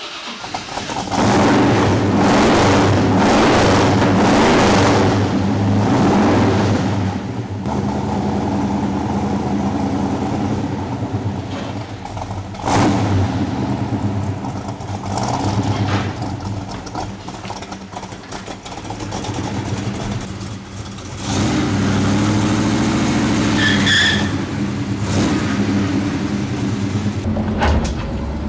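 Classic muscle car's engine running and being revved, its loudness swelling and easing several times as the car pulls out and drives off.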